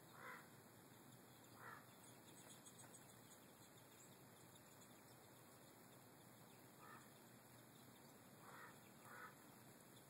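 Faint, short, harsh bird calls, about five in all: two in the first two seconds and three more in the second half, the last two close together. They sound over a steady background hiss.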